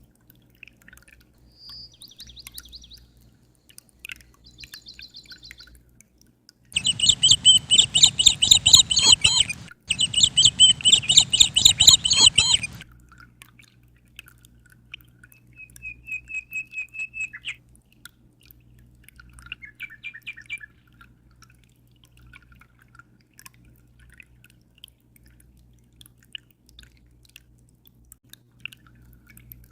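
Birds chirping: a few faint chirps, then a loud run of rapid high chirps lasting about six seconds with a brief break in the middle, followed by a short quick trill and scattered faint chirps.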